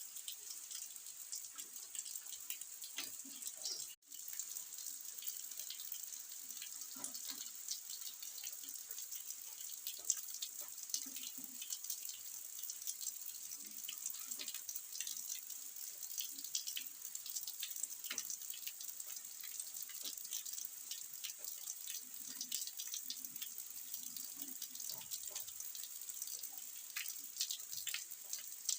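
Steady rain: a continuous high hiss with many individual drops ticking and pattering through it. There is a brief break in the sound about four seconds in.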